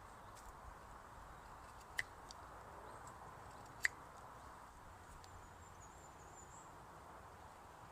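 Quiet woodland ambience with a faint steady hiss of breeze, broken by two sharp clicks or snaps about two and four seconds in, and a faint, high, thin bird call a little after halfway.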